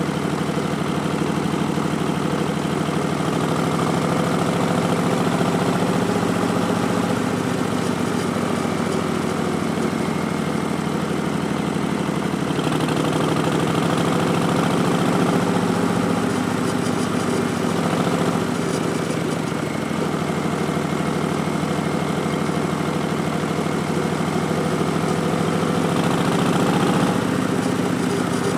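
2019 Harley-Davidson Street Bob's Milwaukee-Eight 107 V-twin running through Vance & Hines Twin Slash slip-on exhausts, its pitch rising and falling in slow swells as the throttle is opened and eased off.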